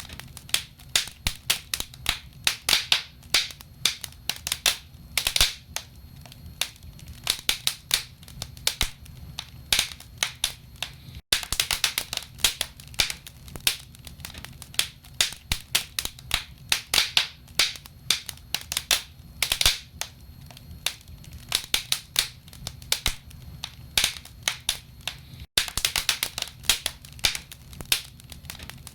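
Wood fire crackling in a fireplace: dense, irregular sharp pops and snaps from the burning logs over a low steady rumble. The sound cuts out for an instant twice, about 11 seconds in and near 25 seconds.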